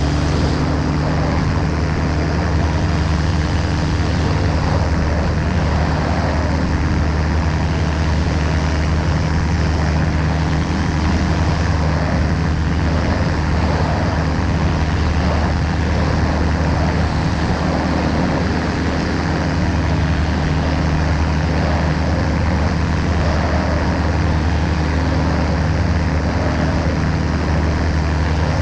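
Ultralight aircraft's engine and propeller running at a constant speed, a steady, unbroken drone.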